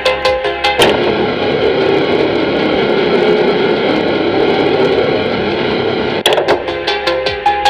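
Airplane engines running loud and steady for about five seconds, with music briefly at the start and again near the end.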